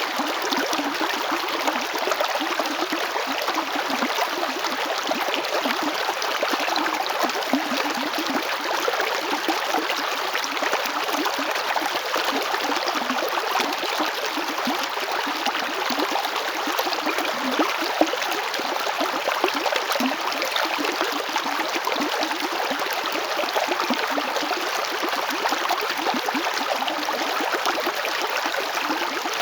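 River water flowing and gurgling over stones, a steady, dense rush with small splashes.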